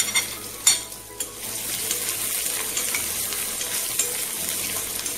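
Chopped garlic and ginger frying in hot oil in a small pan: two sharp spoon clinks in the first second as they are scraped in, then a steady sizzle while they are stirred.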